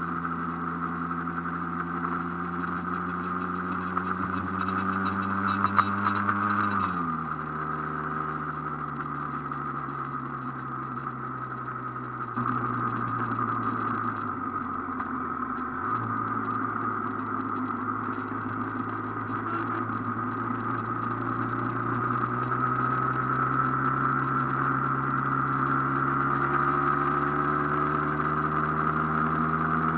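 Aprilia AF1 two-stroke motorcycle engine heard on board while riding. Its note drops sharply about seven seconds in and keeps sinking as the bike slows, then climbs steadily through the second half as it speeds up again.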